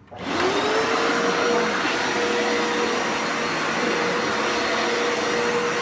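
Hoover TurboScrub carpet washer switched on: its motor spins up with a quick rising whine, then runs steadily, a steady whine over a loud rush of air.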